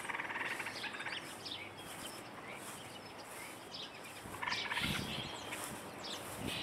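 Outdoor ambience with small birds chirping in short repeated calls, busiest at the start and again past the middle, and a few low thumps near the end.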